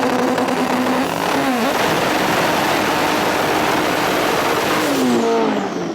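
Twin-turbo Audi R8 V10 at full throttle, accelerating hard, with a brief dip in pitch about a second and a half in. The engine pitch falls near the end before the sound cuts off.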